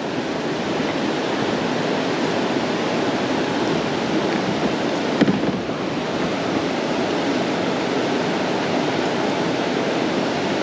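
Creek water rushing through rough water, a steady hiss, with a brief thump about five seconds in.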